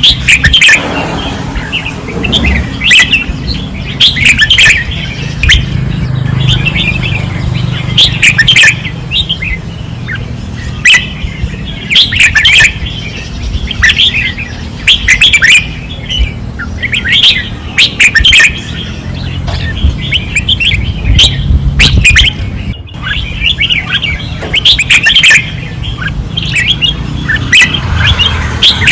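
Red-whiskered bulbuls singing loud, short, chattering song phrases over and over, with no real pause.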